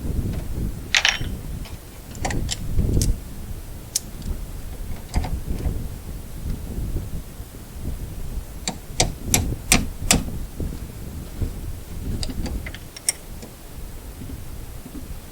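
Scattered sharp clicks and clinks of hand tools and parts being handled during work on a truck, with a quick run of five around the middle and another cluster near the end, over low wind rumble on the microphone.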